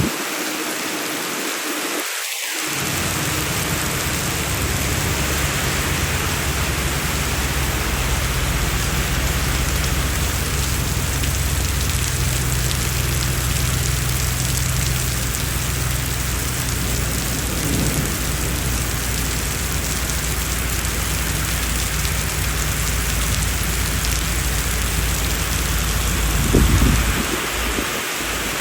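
Heavy rain falling steadily, an even hiss, over a deep low rumble, with a brief louder swell in the rumble near the end.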